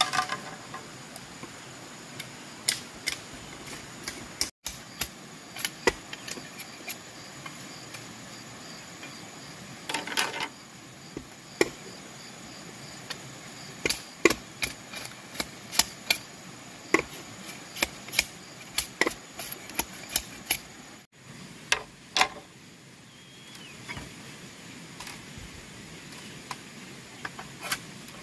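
Irregular sharp knocks and taps of hand tools working bamboo, over a steady background hiss.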